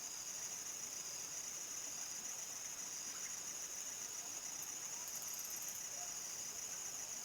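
Crickets chirring steadily in one continuous high-pitched drone, with a brief fainter, higher trill about five seconds in.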